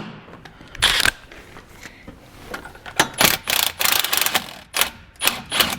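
A wrench working a nut on a truck engine: short bursts of metallic clicking and rattling, the longest run of rapid clicks about three seconds in.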